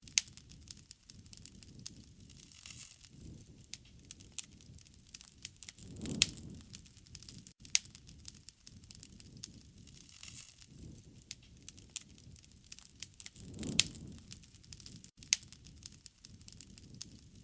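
Wood fire crackling, with frequent sharp pops and snaps over a low rumble of burning that swells and fades every few seconds.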